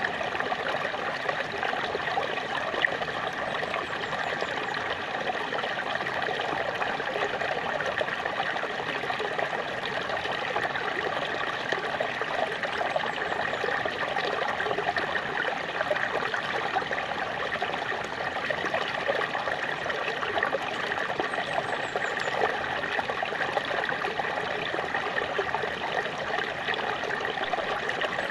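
Small waterfall, water splashing and trickling in a steady, even rush.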